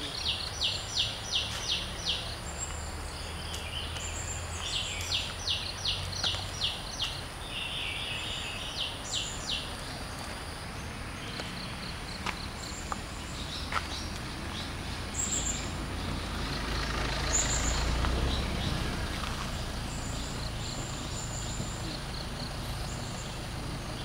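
A bird calls in runs of short, sharp, high notes, about four a second, three runs in the first ten seconds, followed by scattered single chirps. Later a low rumble swells and fades over a few seconds.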